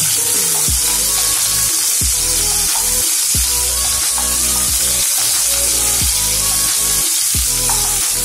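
Red onion wedges sizzling steadily in hot olive oil in a frying pan as they are stirred with a wooden spoon, over background music with a steady beat.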